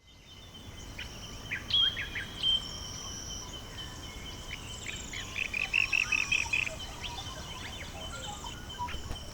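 Several wild birds calling and chirping, with a quick run of about nine sharp repeated notes a little past the middle, over a thin steady high tone.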